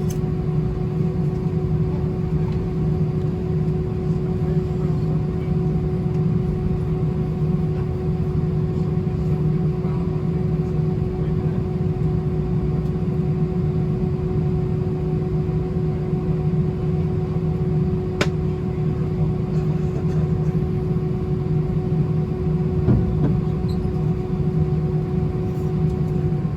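Steady cabin hum inside an Airbus A319 stopped on the ground after landing: a low drone with a constant mid-pitched tone over it, and a single sharp click about 18 seconds in.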